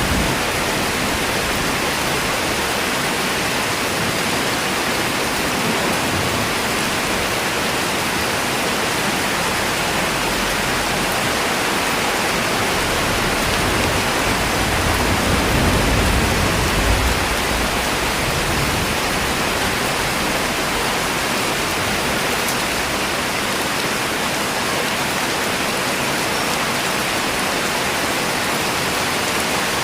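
Steady rain falling, an even dense hiss. About halfway through a low rumble swells for a few seconds and fades.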